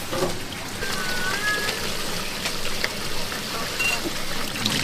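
Steady rain falling, an even hiss with scattered small drips and patters. A short high chirp wavers briefly about a second in.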